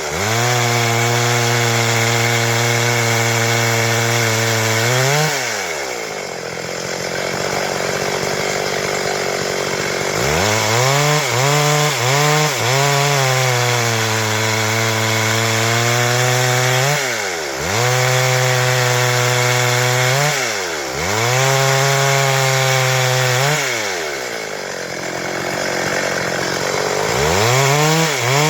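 Stihl MS 382 two-stroke chainsaw running at high revs and cutting wood, its engine note dipping sharply and recovering several times as the load changes.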